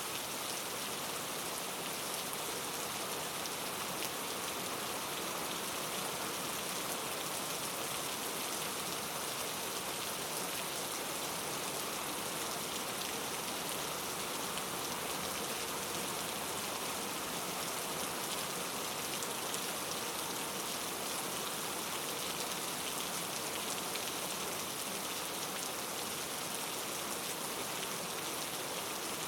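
Steady rain falling: a dense, even hiss of many fine drops.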